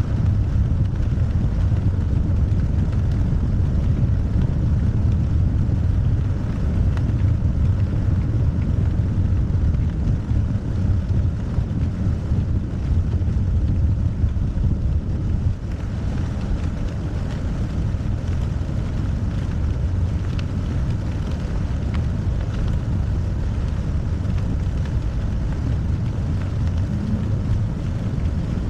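Wind noise on the microphone: a low, gusting rumble that turns steadier and a little quieter about 16 seconds in.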